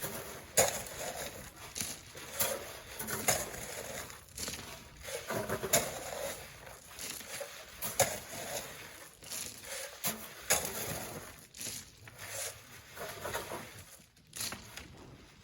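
Sand being shovelled by hand: repeated scrapes and knocks of shovels in sand at an uneven pace, about one to two a second.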